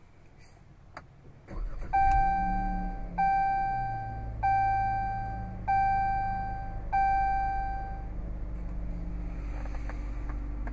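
A Chrysler 300's 3.6-litre Pentastar V6 cranks and starts about a second and a half in, then settles into a steady idle. Over it, the dashboard warning chime rings five times, about a second apart, each tone fading away.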